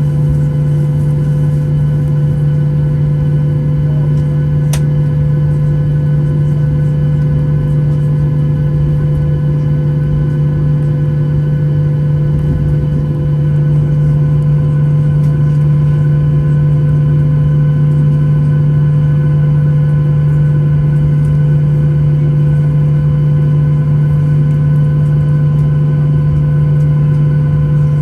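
Steady low cabin drone inside a Boeing 737-800 before takeoff, with a strong hum and a few steady tones above it. It grows slightly louder about halfway through, and a single click comes about five seconds in.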